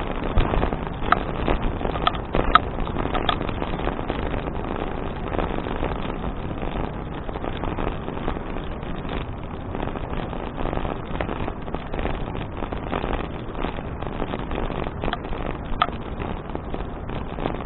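Wind buffeting an action camera's microphone over the rumble of a bicycle being ridden on pavement, with a few sharp clicks and knocks in the first three seconds and one more near the end.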